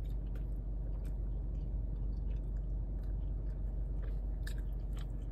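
Close-up chewing of a mouthful of kimchi fries and spicy pork, with scattered small clicks, over a steady low hum.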